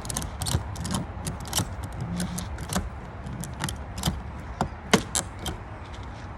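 Ratchet strap being cranked tight: a string of sharp, irregular metal clicks from the ratchet handle and pawl, over a steady low rumble.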